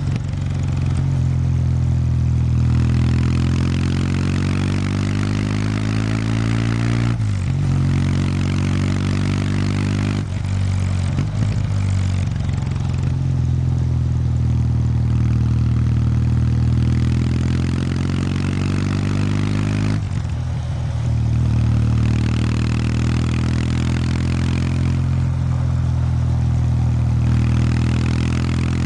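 Kawasaki W800 Street's air-cooled parallel-twin engine running through its stock exhaust while riding. The engine note climbs, then dips and picks up again a few times: about seven seconds in, around eleven seconds, and around twenty seconds in.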